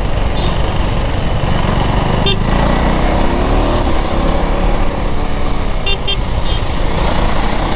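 KTM 390 Duke's single-cylinder engine running on the move in traffic under a steady rumble of wind, its revs climbing for a couple of seconds a few seconds in as it accelerates. A few short high-pitched toots sound near the start and again about six seconds in.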